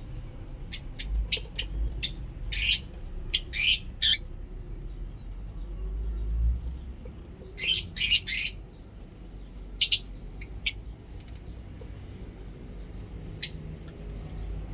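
Pet lovebirds calling: short, shrill chirps and squawks in scattered bursts of two to four, over a faint steady high-pitched whine.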